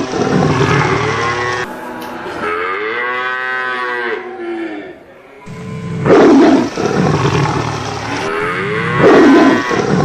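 Cattle mooing repeatedly: a long moo that rises and falls in pitch about two seconds in, and further loud moos past the middle and near the end.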